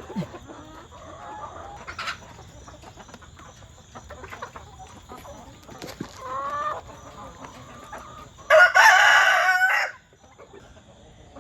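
Backyard chickens clucking softly. About eight and a half seconds in, a rooster crows loudly, one long crow lasting about a second and a half.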